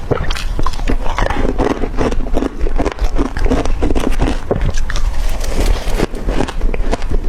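Crushed ice being bitten and crunched between the teeth: a fast, continuous run of sharp crackles and snaps.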